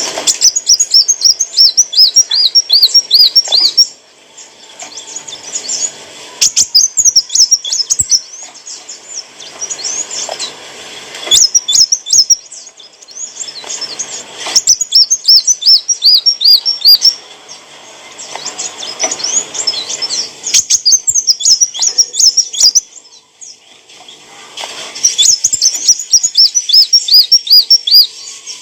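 Kolibri wulung sunbird singing: bursts of rapid, repeated high chirping notes lasting a few seconds each, broken by short pauses.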